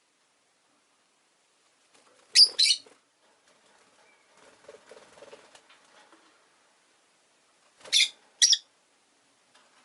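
Rosy-faced lovebird giving short, sharp, high-pitched chirps in two quick pairs, a few seconds apart, with soft low chatter between them.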